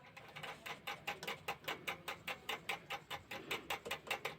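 Rapid, even clicking, about six clicks a second, of a ratchet tool tightening a nut on an electric room heater.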